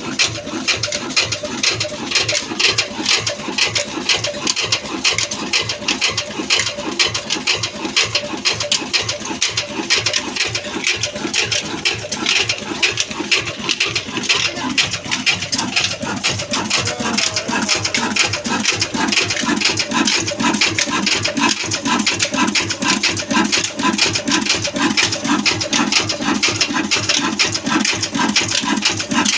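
Old Ruston diesel oil engine running steadily, its mechanical clatter repeating in an even, fast rhythm.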